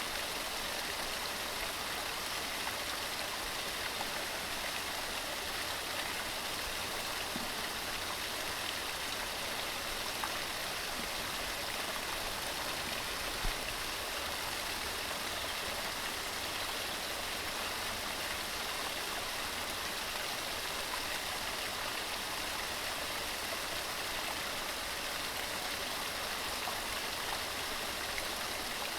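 Waterfall: water tumbling over rocks in a steady, even rush, with one brief knock about halfway through.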